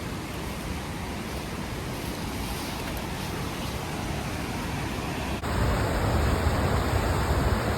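Steady rushing of a waterfall, which becomes abruptly louder and deeper about five seconds in.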